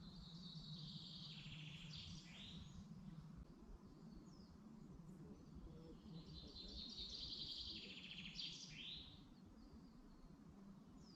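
A songbird singing two phrases a few seconds apart, each a fast trill that ends in a quick falling flourish, over a faint low background rumble.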